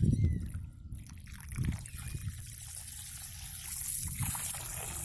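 Water trickling and splashing into the hollow channels of soil-cement bricks as they are washed out, rinsing away dust so the new concrete will bond.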